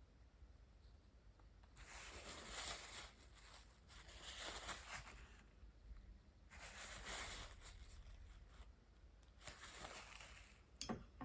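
Faint, scratchy strokes of a brush-tip water-based marker (Spectrum Noir Tri-Colour Aqua) across hot-press watercolour paper. There are about five strokes of half a second to a second and a half each, and a sharp click near the end.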